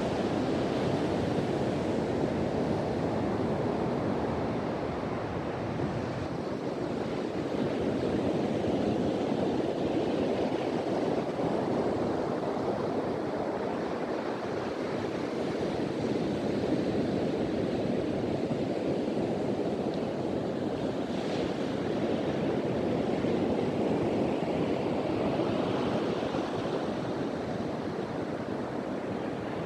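Ocean surf washing onto a beach in a steady, continuous rush that swells and eases gently, with wind noise on the microphone.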